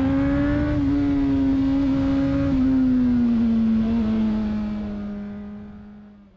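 Honda CBR600RR's inline-four engine running at steady revs, its pitch easing up and down slightly, with a low wind rumble underneath. The sound fades out over the last two seconds.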